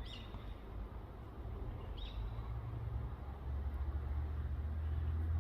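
A small bird calling, two short high chirps about two seconds apart, over a low rumble that gets louder in the second half.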